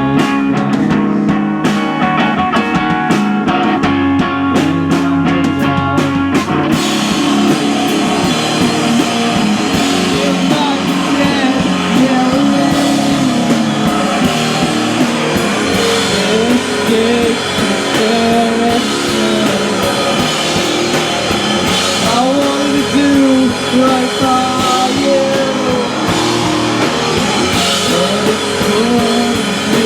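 Live rock band playing. A guitar plays on its own for about the first seven seconds, then the drums and the rest of the band come in, with singing.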